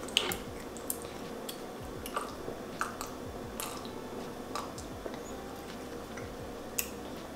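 Children chewing pizza and chicken wings, with about a dozen small, scattered mouth clicks and smacks, one sharper click near the end. A boy sips water from a plastic cup.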